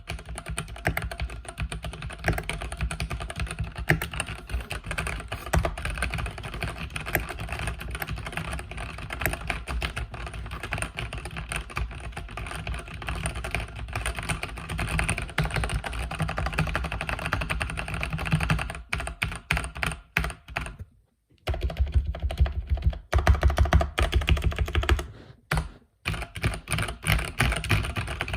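Mechanical keyboard with red linear switches being typed on steadily in a dense run of keystroke clacks, with two short pauses in the last third.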